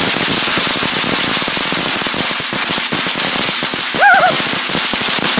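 Fireworks crackling: a dense, continuous string of rapid pops and crackles with a hiss. A person's short exclamation comes through about four seconds in.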